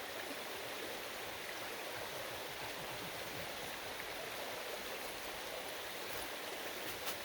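Stream water running steadily, an even rush with no change.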